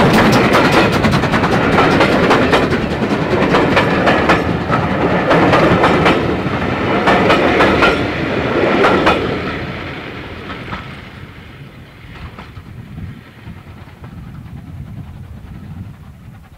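Steam-hauled train of coaches passing close by, the wheels clattering over rail joints in sharp, repeated clicks. The sound fades away after about nine seconds as the train recedes.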